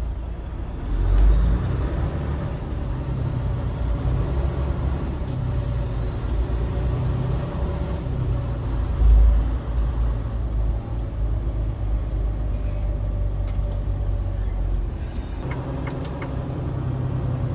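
Steady low rumble of a semi-truck's engine and road noise while driving. Two brief louder low thumps come about a second in and about nine seconds in.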